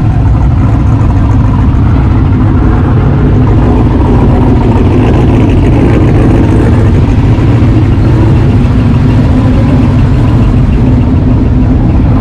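Truck engines running with a loud, steady low rumble.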